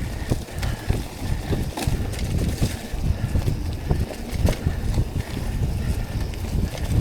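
Mountain bike riding fast over a dirt trail: tyres rumbling on the ground and the bike rattling and knocking over bumps, with wind buffeting the microphone.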